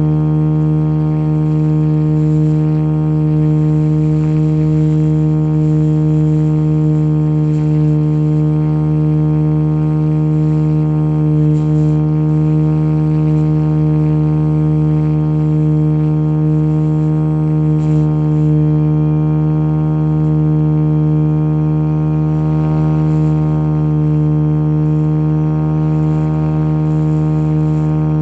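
Radio-controlled JetRanger model helicopter's rotor and motor running at a constant speed: a loud, steady hum that holds one pitch throughout.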